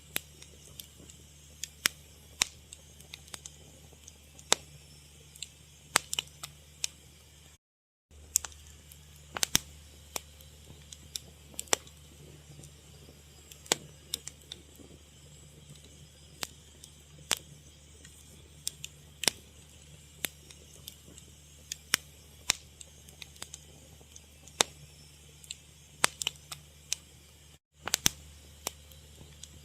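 Wood fire crackling: sharp, irregular pops and snaps over a low steady hum, cutting out briefly twice.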